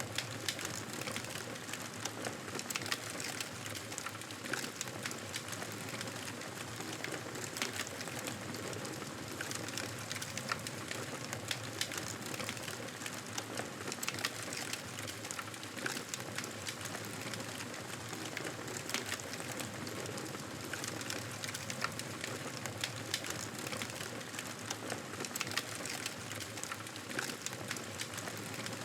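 Wood fire crackling in a fireplace: a steady hiss dotted with many small irregular pops and snaps.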